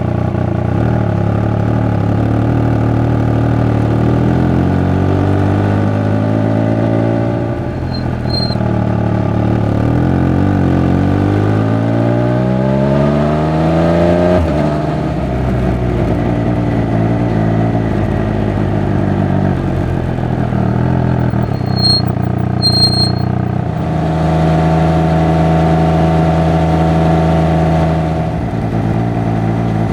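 Triumph Speed Triple 1200 RR's three-cylinder engine and exhaust under way, the revs climbing and falling repeatedly through gear changes, then holding steady near the end. Two short high chirps sound about three quarters of the way through.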